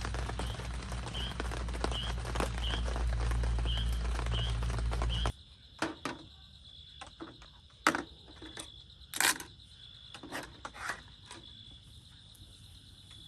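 A loud, even wash with a steady low hum and short chirping calls about twice a second cuts off suddenly about five seconds in. What follows is an insect's steady high trill with scattered sharp clicks and knocks.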